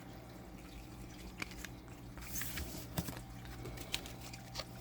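Thick tarot cards being handled: a few faint taps and the soft slide of card stock as cards are moved and set down, over a low steady hum.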